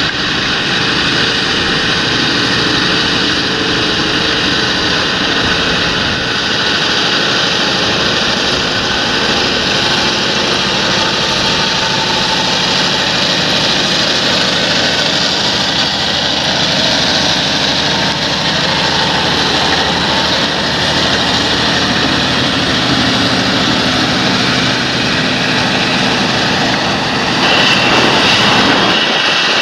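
Large John Deere tractor's engine running steadily under field work, a loud continuous drone with a broad hiss over it. Near the end the low rumble drops away and a higher hiss takes over.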